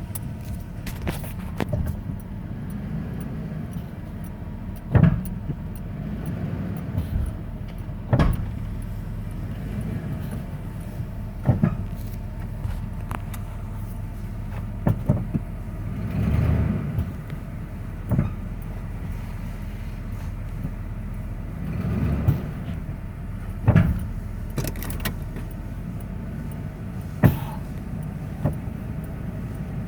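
1994 Ford F-150 4x4 running with a steady low hum, broken by sharp clunks every few seconds, about nine in all. This is the truck's unexplained slapping, clunking noise that comes when the brake is released.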